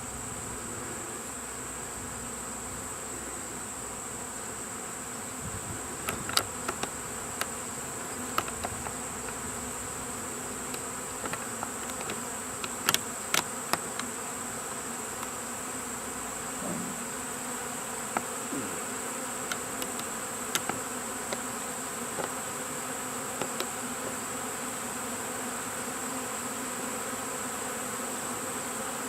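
A swarm of honeybees buzzing steadily around an open hive box, with a constant high whine and scattered sharp ticks through it.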